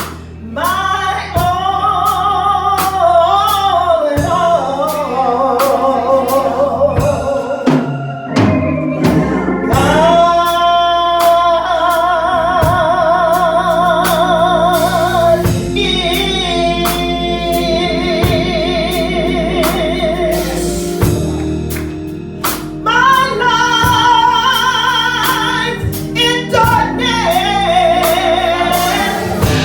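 A woman singing a gospel song with a live band. She holds long notes with a wide vibrato over steady bass and drums.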